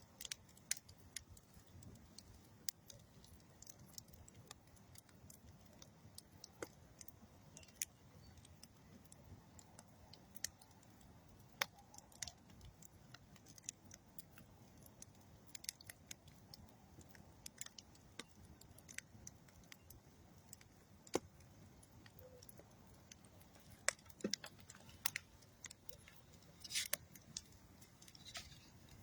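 Wood campfire of old railroad ties and dead tree wood crackling: irregular sharp pops and snaps over a faint low rumble of flame, with a quick cluster of crackles near the end.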